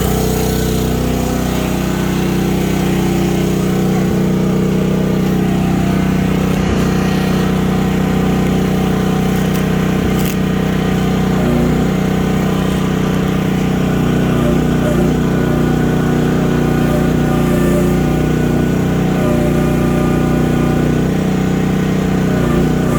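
Small pull-start engine of a mini excavator running steadily with the throttle partly open.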